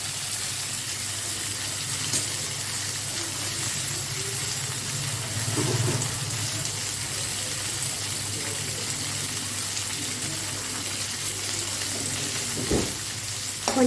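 Chopped shallots frying in hot oil in a kadai with fennel seeds and curry leaves, a steady sizzle, with one sharp knock of a utensil on the pan near the end.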